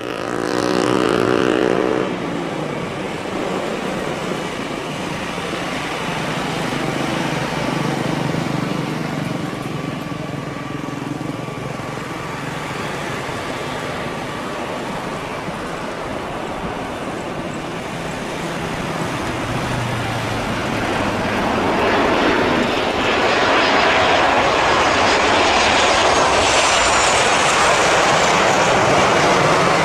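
Boeing 737-800 jet airliner on landing approach: engine roar swelling over the last third into a loud, steady noise with a high whine. Near the start a road vehicle passes with falling pitch, over steady traffic noise.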